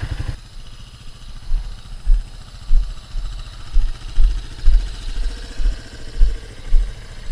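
Dirt bike engine running, dropping from a strong, fast beat to a low idle about a third of a second in, with irregular deep thumps over the idle.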